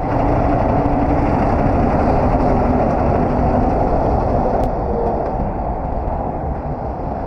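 A heavy truck running steadily.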